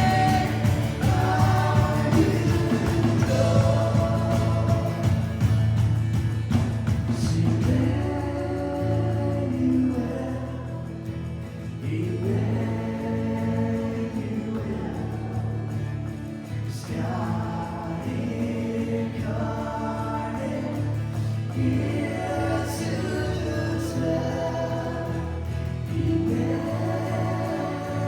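Church worship music: voices singing a slow song in drawn-out phrases over a steady low accompaniment. It gets quieter about eight to ten seconds in.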